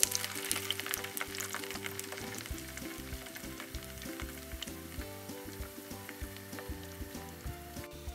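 Fish balls slid into hot oil in a frying pan, sizzling and crackling loudest as they go in, then settling into a steady frying sizzle.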